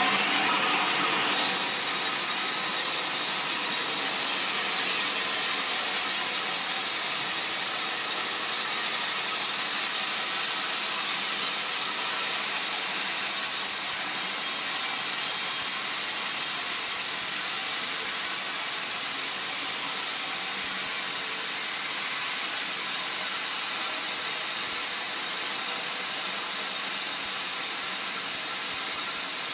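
Sawmill saw running steadily, a constant hissing machine noise that changes slightly about a second and a half in and then holds even.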